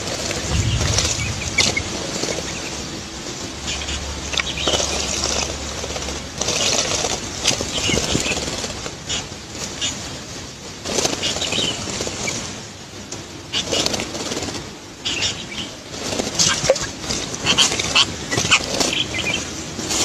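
Bulbuls bathing in a shallow rock pool: repeated quick flurries of wing flapping and splashing water, with short high chirps in between.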